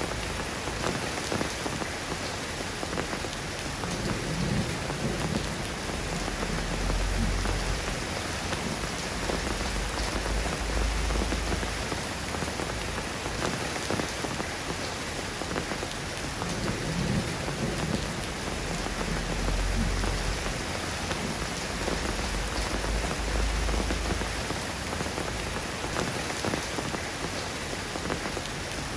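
Steady rain falling and pattering on surfaces, with deep low rumbles of distant thunder swelling up several times.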